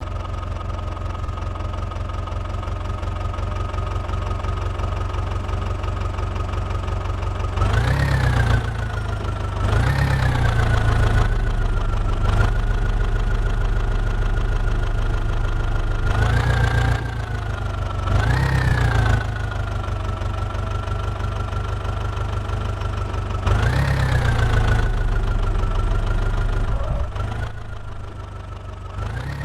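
Backhoe loader's diesel engine running steadily with a high whine, revving up in short surges about six times as the hydraulics take load while digging.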